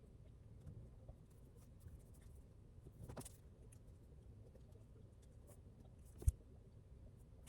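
Scattered faint light clicks and taps over a low steady rumble, with a brief rustle about three seconds in and one sharper click a little after six seconds.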